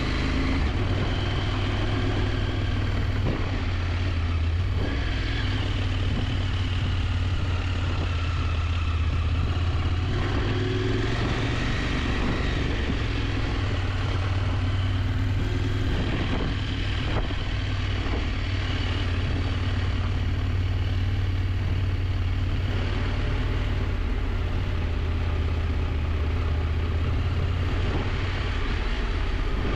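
KTM 890 Adventure's parallel-twin engine running steadily under way on the road.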